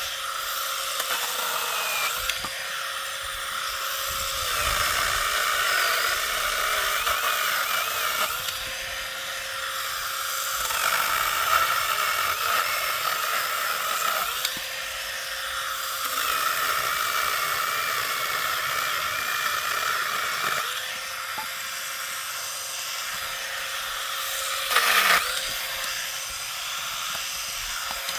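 Small electric power saw cutting leftover thinning wood into kindling: a continuous high motor whine whose tone changes every few seconds as the blade bites into the wood and eases off, with a sharp knock about 25 seconds in.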